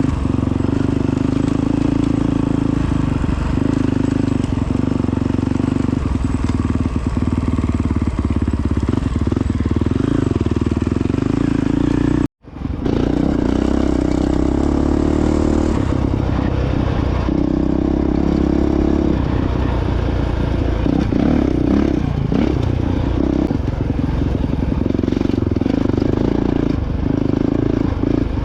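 Honda CRF450X dirt bike's single-cylinder four-stroke engine running on the trail, the throttle opening and easing again and again. The sound cuts out for a moment about twelve seconds in.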